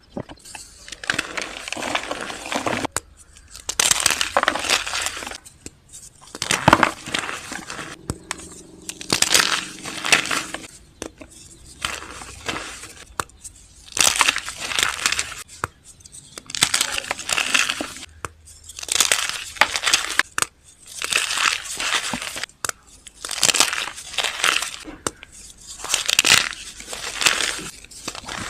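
Heart-shaped blocks of reformed gym chalk being crushed, crunching and crumbling in about a dozen separate bursts, each a second or two long.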